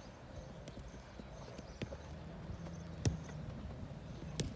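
Four scattered sharp knocks, irregular in spacing, the loudest about three seconds in, over a low background rumble.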